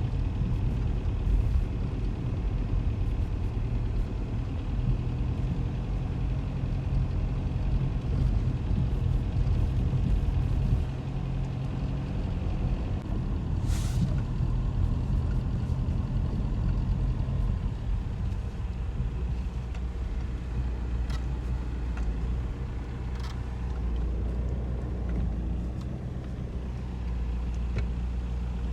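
A motor vehicle running steadily, a continuous low rumble whose engine note shifts lower about two-thirds of the way through, with one short hiss about halfway.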